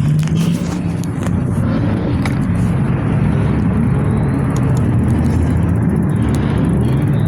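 Car engine running steadily with a low, even drone.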